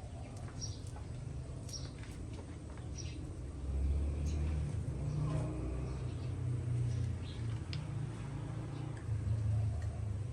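Birds chirping in short calls over a low, uneven rumble that grows louder about four seconds in.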